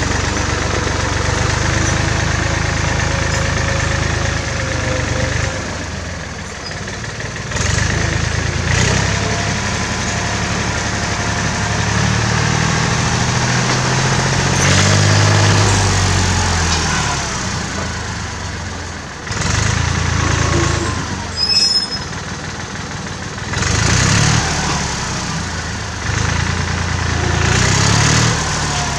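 1967 David Brown tractor's engine running, its speed rising and falling repeatedly as it works, with several short surges.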